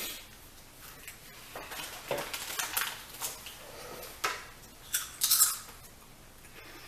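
Crunchy chewing of tortilla chips close to the microphone: a string of irregular crackling crunches, loudest about five seconds in, with light clatter of food handled on a plate.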